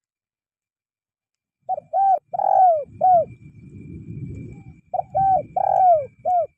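Spotted dove cooing its call twice after a second and a half of silence. Each phrase is four falling coos with a longer third note, and there is a low rumble under and between the phrases.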